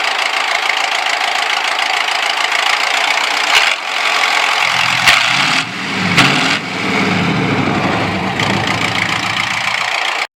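International Harvester tractor's diesel engine running, with a deeper engine rumble coming in about halfway through. Sound cuts off abruptly at the end.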